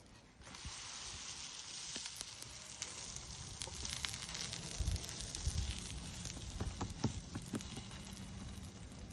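Msemen flatbread frying in a pan over a wood fire: a steady sizzle with scattered crackles, starting abruptly about half a second in.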